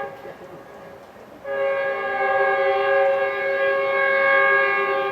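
Metrolink commuter train's air horn: a brief blast right at the start, then one long steady blast of a multi-note chord starting about a second and a half in and fading near the end.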